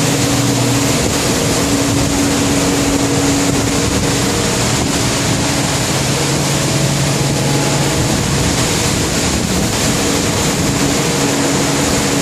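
Steady rush of storm wind and heavy sea, with the low, even hum of a ship's engines and machinery underneath.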